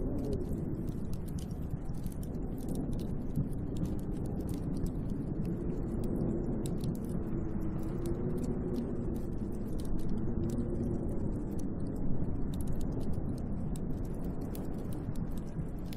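Snowstorm wind blowing steadily, a low rushing noise with a wavering moan that swells in the middle and fades again toward the end. Faint scattered ticks sound above it throughout.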